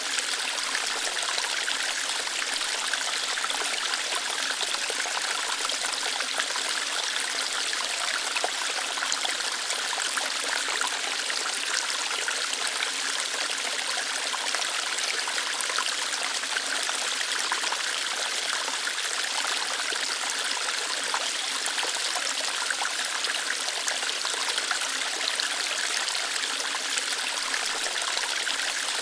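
Small waterfall splashing and trickling over rocks: a steady, even rush of water with no change in level.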